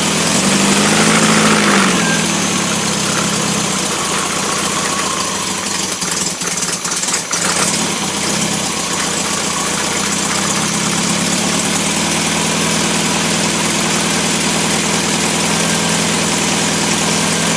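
Freshly rebuilt MGB 18V 1.8-litre four-cylinder engine running on a test bed at tick over. About a second in, its pitch briefly rises and falls back, as in a short blip of revs. After that it idles steadily.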